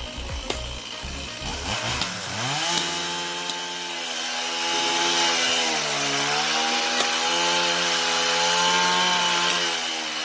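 Chainsaw engine revving up about two seconds in and running at high speed, its pitch dipping as it bogs under load around the middle.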